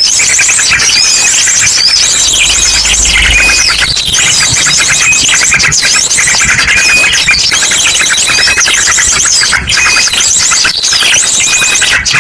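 Bird-lure call recording: a loud, nonstop chorus of small birds chirping over one another, with rapid high trills and short whistled notes, mixed with ashy drongo song.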